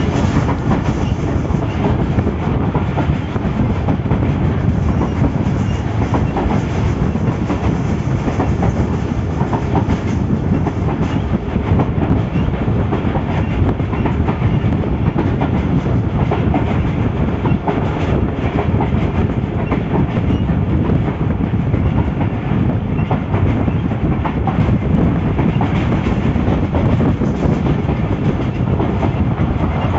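Moving passenger train heard from an open coach doorway: the steady running noise of wheels on the track, with rail clatter, holding even throughout.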